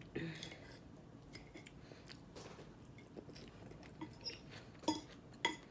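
Close-up chewing of a salad, with faint mouth clicks and a couple of sharp clinks of a utensil on the dish near the end.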